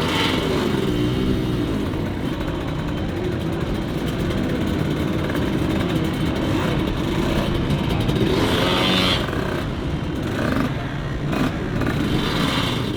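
Off-road motorcycle engine revving on and off the throttle, its pitch rising and falling repeatedly.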